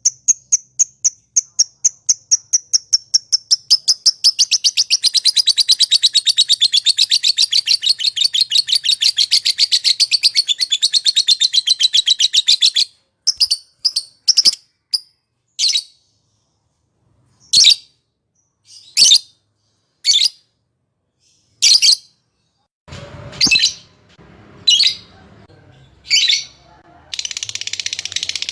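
Lovebird giving its long chattering 'ngekek' song: a high-pitched series of notes at about four to five a second that runs together into a fast continuous trill. About halfway through it breaks into single short chirps roughly a second apart, and the dense trill starts again near the end.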